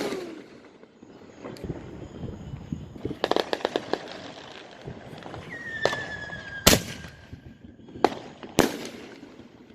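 Aerial firework shells bursting: a string of separate sharp bangs, with a quick run of crackles about three seconds in. A thin whistle, falling slightly in pitch, sounds about halfway through and ends with the loudest bang.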